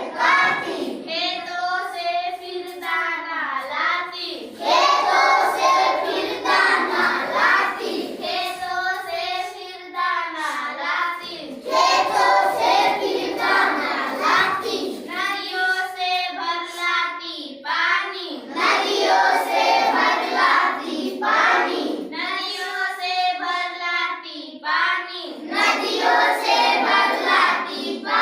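A child singing a Hindi children's poem line by line, with short pauses between the sung phrases.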